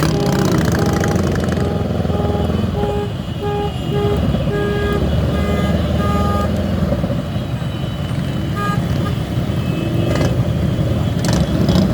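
Motorcycle engines and traffic rumbling steadily, with a vehicle horn sounding a string of short beeps, about two a second, through the first half and again near the end.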